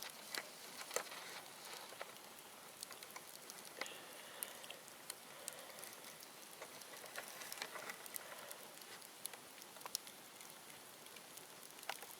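Bonfire of dead bamboo crackling: a soft steady hiss with scattered sharp pops and clicks at irregular intervals.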